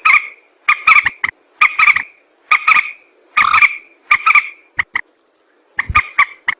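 Mandar (rail/moorhen) calling loudly over and over, as played on a bird-trapping lure recording: short harsh repeated notes in quick groups, with a break of nearly a second near the end.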